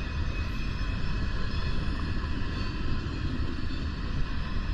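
Steady wind rumble on the microphone while cycling, with a fainter hiss of riding noise above it.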